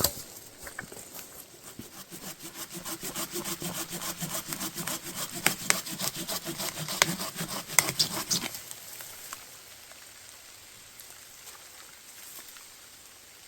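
Hand saw cutting through firewood with quick, even back-and-forth strokes that stop about eight and a half seconds in.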